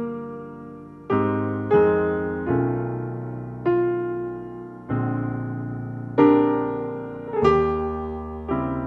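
Slow keyboard music: sustained piano-style chords struck about every second or so, each left to ring and fade before the next.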